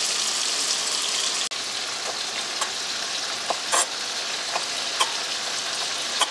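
Pheasant breasts sizzling steadily in butter and olive oil in a frying pan. From about two seconds in, a knife taps sharply on a wooden cutting board several times as salt pork is diced.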